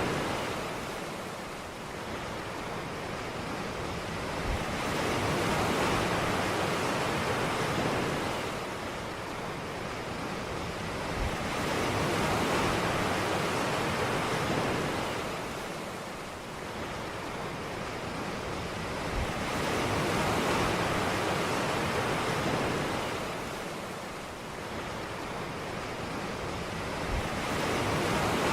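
Ocean waves breaking and washing up a beach, a rushing surf noise that swells and ebbs about every seven to eight seconds.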